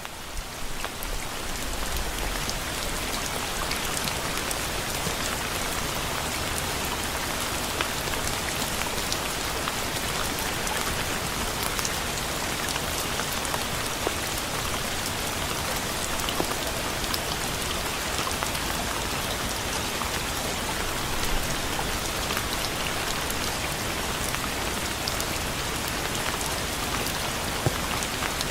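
Steady rain falling, a dense even hiss with individual raindrops ticking through it. It fades in over the first two seconds, then holds steady.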